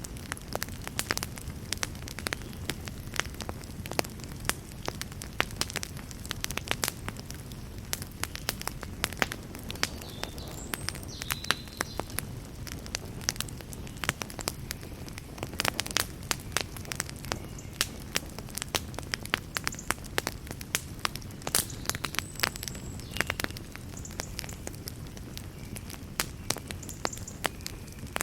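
Wood fire burning in a fireplace: a steady low rumble of flame with frequent irregular sharp crackles and pops from the burning wood, and a few faint brief hisses.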